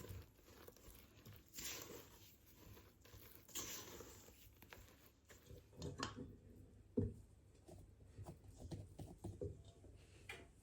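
Quiet handling sounds: a few soft swishes and rustles, then scattered light clicks and knocks, with one sharper knock about seven seconds in.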